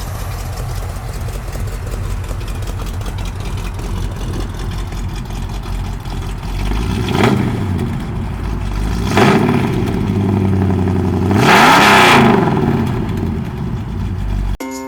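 Rebuilt 454 cubic-inch big-block V8 with headers and Flowmaster mufflers idling, then blipped three times, each rev rising and falling back to idle, the third held longest and loudest.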